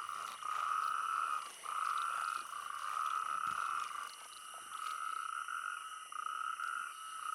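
Chorus of male natterjack toads calling: long, level calls of about a second each, one after another with short gaps and overlapping. These are mating calls; a strong call is the sign of a healthy male that females listen for.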